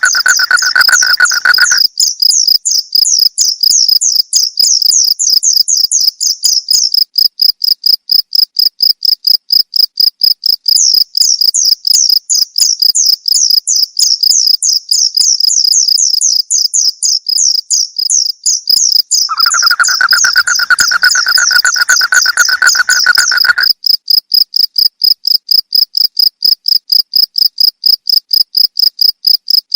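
Crickets chirping steadily in a fast, high-pitched pulsing trill. A second, lower-pitched trill joins for the first couple of seconds and again for about four seconds past the middle.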